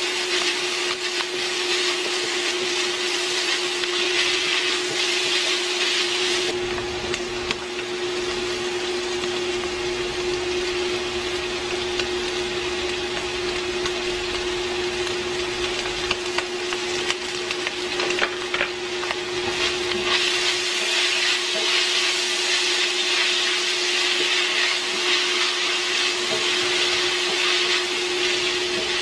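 Ground meat and onion sizzling in a non-stick wok while being stirred with a spatula, over a steady hum. The sizzle thins after a few seconds and grows again past the middle.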